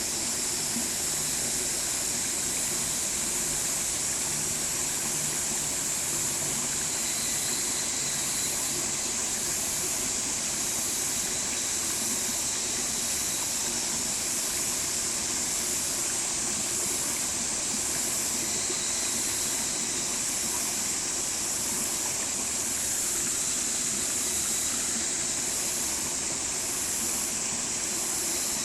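Stream water rushing and splashing over rocks in a steady, unbroken hiss.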